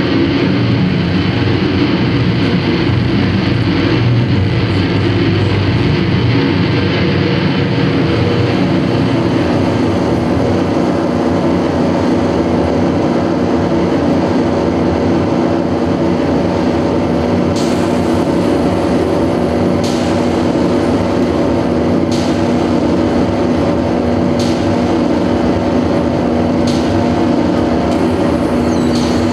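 Live experimental noise music: a loud, dense wall of noise over a steady low drone, with short hissing accents about every two seconds in the last third.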